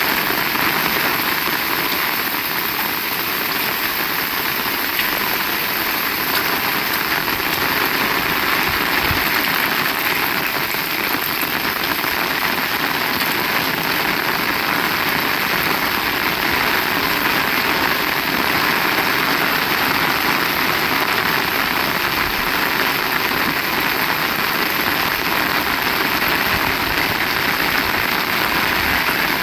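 Heavy rain falling steadily, a loud, dense, even hiss of drops on surfaces.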